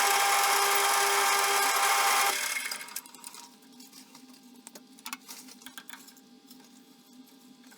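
CJM360 metal lathe running with a loud, steady machining noise that carries several steady whining tones. About two seconds in the noise drops away, leaving a faint hum and scattered light clicks and knocks.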